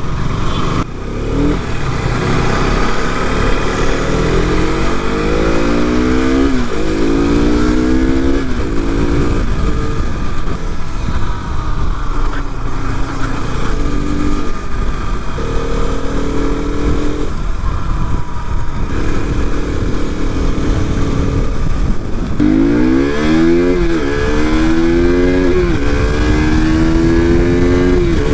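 KTM RC 200's single-cylinder engine accelerating up through the gears, its pitch rising and dropping back with each upshift, with steadier cruising stretches in between and a quick run of shifts near the end.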